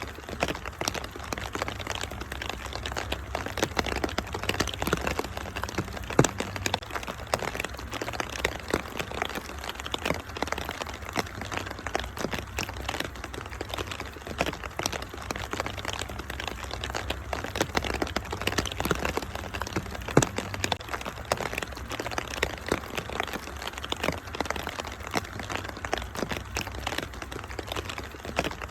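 Wood fire crackling in a fireplace, with dense irregular pops over a steady rain-like hiss and a low steady rumble. The sharpest pops come about six seconds in and again about twenty seconds in.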